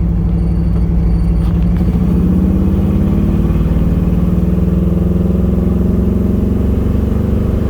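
1978 Pontiac Trans Am's V8 engine running under light throttle as the car drives, its pitch rising slowly and steadily.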